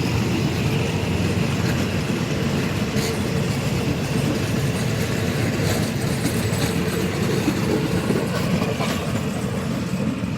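Train running on the rails with a steady loud rumble, with a few sharp clicks from the wheels over rail joints.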